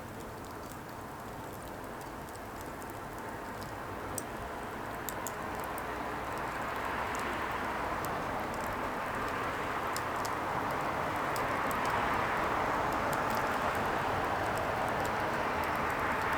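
Burning firewood: a steady rushing hiss with scattered small sharp crackles and pops. The rush slowly grows louder through the first part.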